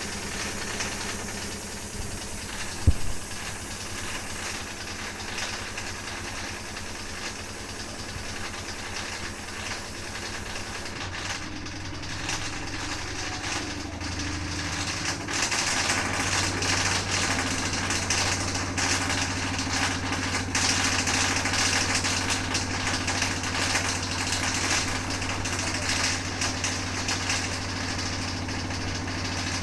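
Washing machine running with an abnormal rattling noise, which the owner puts down to a solid object that went in with the laundry. One sharp knock about three seconds in; partway through the motor speeds up and the running grows louder, with a dense rattle over a steady hum.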